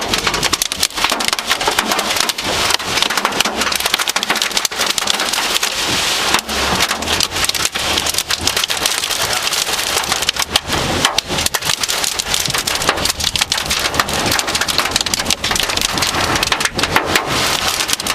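Heavy wind-driven rain and hail pelting a vehicle in a severe thunderstorm's hail core: a loud, steady drumming with dense sharp clicks of hailstones striking.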